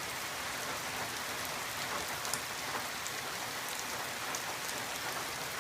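Heavy steady rain falling, a dense even hiss with scattered drop patters.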